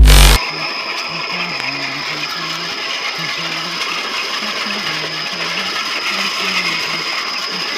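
A small electric motor runs steadily with a constant high whine, likely a miniature RC truck's drive motor. A blast of electronic music cuts off just at the start.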